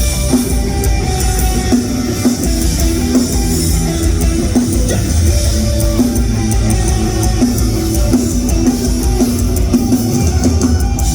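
Live rock band playing an instrumental passage with a steady drum kit, bass and electric guitar and no vocals.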